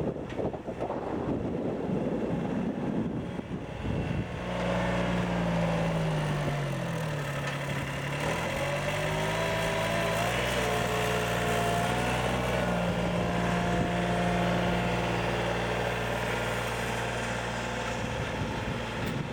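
Diesel engine of a Volvo BM 6300 backhoe loader running, with wind buffeting the microphone for the first four seconds. After that the engine note holds steady, then dips in pitch and recovers about seven to eight seconds in.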